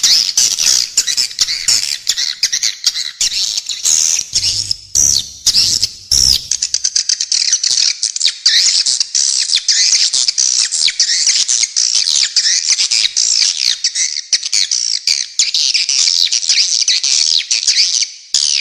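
Spiderhunter and swiftlet calls layered together in a dense, harsh, rapid chatter of high chirps that never lets up.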